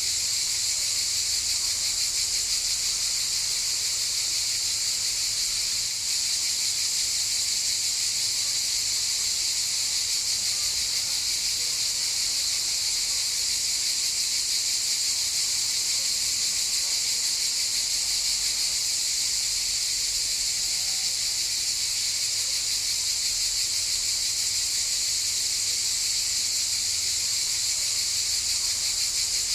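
A chorus of cicadas buzzing steadily in a continuous high-pitched drone, without pauses.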